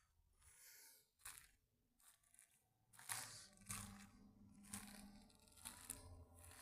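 Faint crunching and crackling of dry forest litter, leaves and pine needles, in a few separate crunches spread over several seconds.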